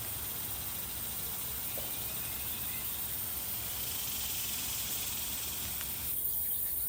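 Steady outdoor hiss with a high, even insect drone above it. The sound changes abruptly about six seconds in, as if at a cut.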